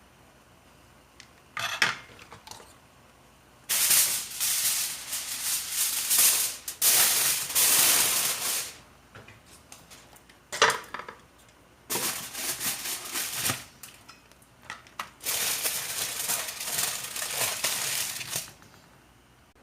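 Kitchen handling sounds: bouts of rattling and scraping, like grains or food being stirred or shaken in a pot, with sharp clicks between. There are five bouts, the longest lasting about five seconds, with quiet pauses between them.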